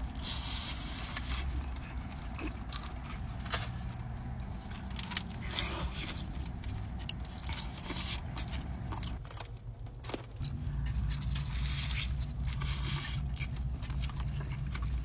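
Close-up eating sounds: chewing and wet lip-smacking as a birria taco dipped in consommé is bitten and chewed, with many short sharp clicks. Underneath is a steady low hum inside the car, which drops out briefly about nine seconds in and returns.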